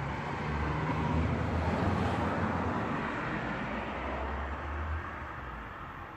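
A motor vehicle passing by, its noise growing to a peak about two seconds in and then slowly fading away.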